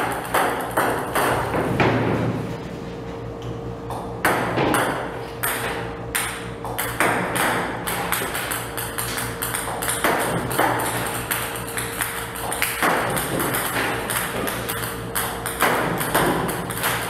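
Table tennis balls clicking sharply as they hit and bounce on the table, at irregular intervals, over a steady low hum.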